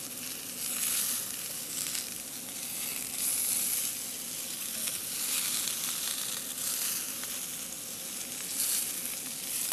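Green beans sizzling in oil in a skillet over a gas burner: a steady frying hiss that rises and falls a little.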